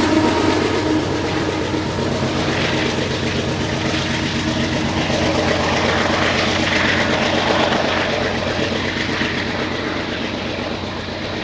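Canadian Pacific freight train's rear diesel locomotive passing close by, its engine running over the noise of wheels on the rails. The rumble then fades slowly as the train pulls away down the track.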